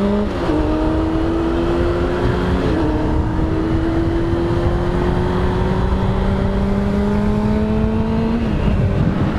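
Honda CBR600RR's inline-four engine running under way, its pitch climbing slowly as the bike gains speed. The pitch drops briefly twice early on, about a third of a second in and near 3 s, and falls away near the end as the throttle eases. A heavy low rush of wind noise lies under the engine.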